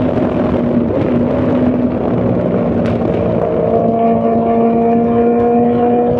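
Straight-piped Honda CBR600's inline-four engine running at steady revs, its pitch creeping slowly upward over the last few seconds.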